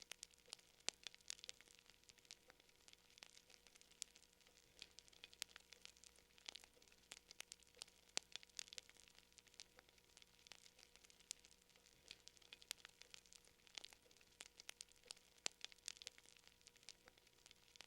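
Faint crackling wood fire: irregular sharp pops and snaps, several a second, over a soft hiss.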